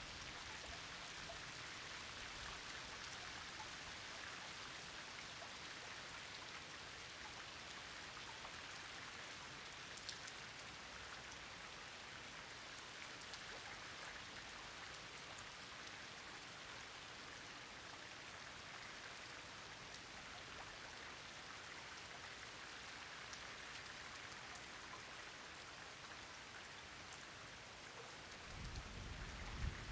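Steady rain falling, with scattered single drops ticking through it. Near the end comes a brief low rumble.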